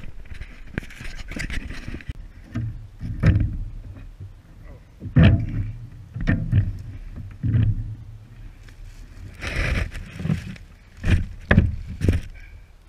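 A series of hollow knocks and thumps on a kayak, about eight in all, scattered unevenly, with two brief stretches of hissing noise.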